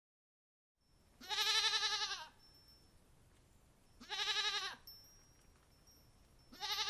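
Goat bleating three times, each call about a second long with a wavering, quavering pitch.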